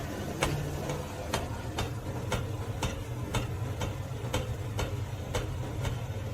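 Regular ticking, about two sharp clicks a second, over a steady low hum.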